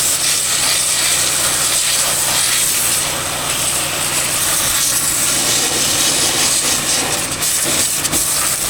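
Water jet spraying onto a baler during washing: a steady, loud hiss of spray with a motor humming steadily underneath.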